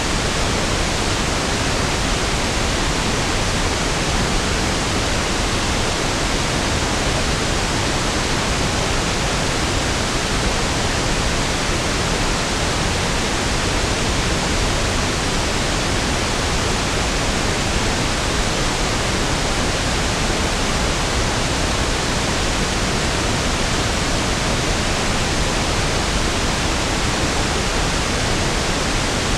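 Steady synthetic pink noise (1/f noise): an even, unchanging hiss that is fuller and softer than white noise, with equal energy per octave.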